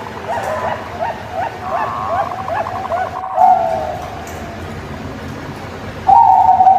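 Low whistled bird calls played as a lure: a quick run of short rising-and-falling notes, about four a second, with a brief fast trill. Then come long, steady held notes, the loudest starting about six seconds in.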